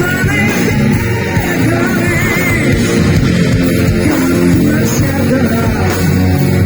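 Live heavy metal band playing loud, dense rock with a high lead line wavering in pitch over it.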